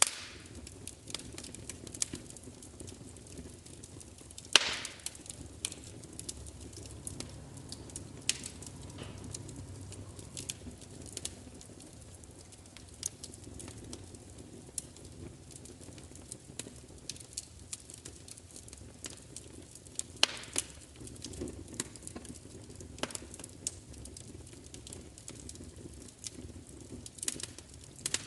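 Fire crackling: frequent small snaps over a low rumble of flames, with louder pops about four and a half seconds in and again around twenty seconds.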